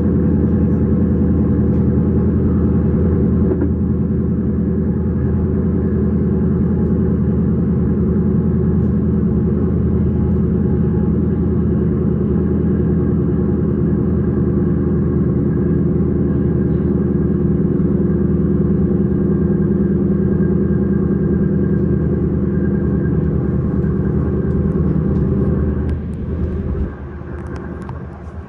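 Electric S-Bahn train running steadily, a loud low drone with several steady tones over the rolling rumble. The drone weakens near the end.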